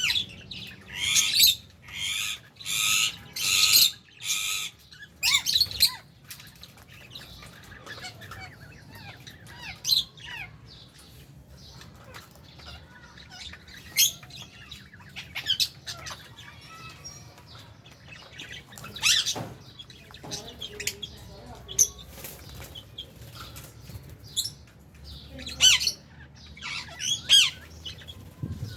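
Lovebirds squawking: a run of loud, shrill calls over the first five seconds, then scattered short squawks and chirps, with a further flurry of calls near the end.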